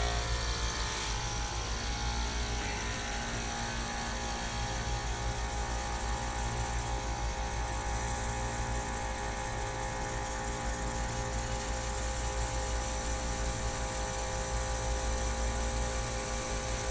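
Rooftop heat pump unit running with a steady hum, its fan motor and compressor going after being switched on through the defrost timer.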